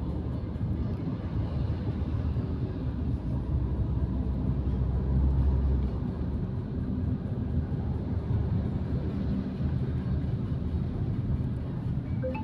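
Car driving, heard from inside the cabin: a steady low rumble of engine and tyres, swelling slightly about halfway through.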